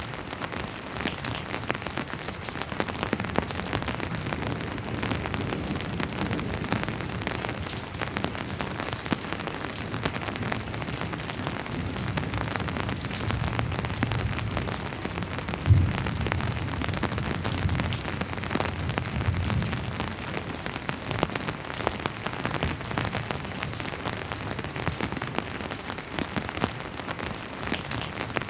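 Steady rain falling on surfaces, a dense patter of drops. A low rumble of distant thunder builds through the middle, with a single sharp knock about 16 seconds in.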